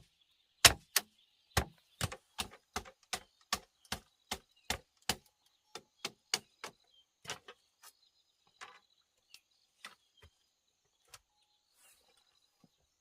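Hand tool chopping into wood in a quick series of sharp blows, about three a second, becoming sparser and quieter after about five seconds.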